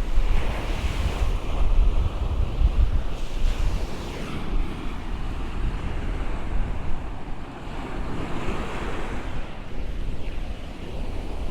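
Ocean surf washing up the beach in slow swells, with wind buffeting the microphone in a low rumble, heaviest in the first couple of seconds.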